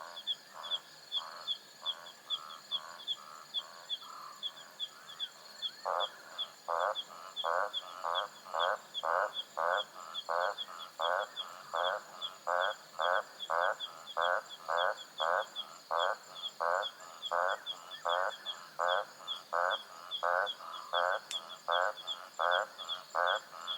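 A frog croaking in a steady rhythmic series, about one and a half croaks a second, weaker and uneven at first and then regular and louder from about six seconds in. Behind it, night insects give a fast high ticking and a continuous high chirring.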